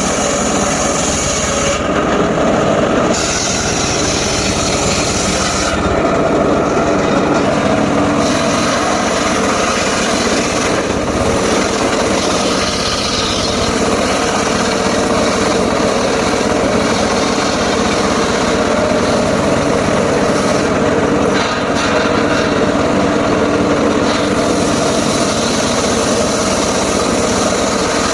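Engine-driven mobile circular sawmill running steadily and loudly, its blade cutting through timber.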